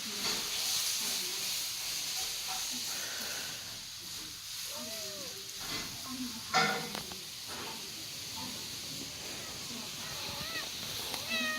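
Small kitten mewing in a few short, rising-and-falling cries, several of them close together near the end, over a steady hiss. A short, louder cry comes about halfway through.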